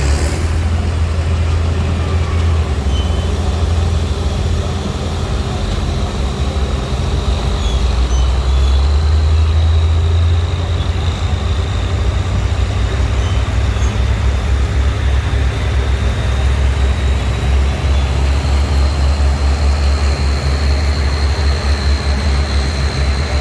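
Antique tractor engine running loud and steady with a deep low beat, a thin high whine held over it.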